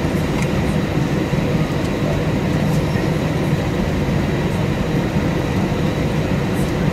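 Steady cabin rumble of an Airbus A320-232 with its IAE V2500 engines and airflow, heavy in the low end, with faint steady whining tones above it.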